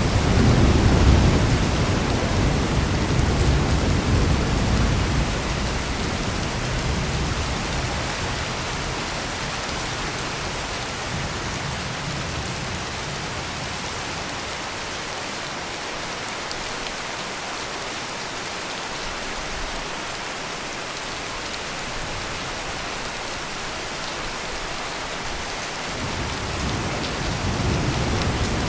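Heavy rain pouring steadily, with a low rolling thunder rumble in the first few seconds that fades away, and another rumble building near the end.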